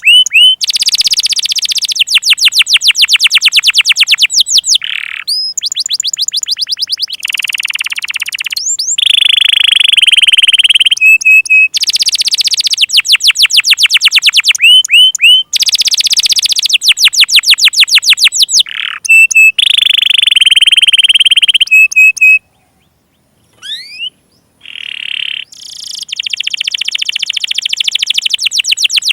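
Domestic canary singing a long, loud song of fast trills and rolls, each phrase a rapid run of identical notes, with a short pause about two-thirds of the way through before the song resumes.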